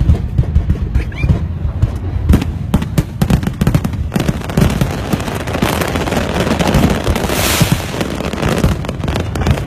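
Fireworks display: a fast run of bangs and booms from aerial shells over a continuous low rumble, thickening into dense crackling from about four seconds in.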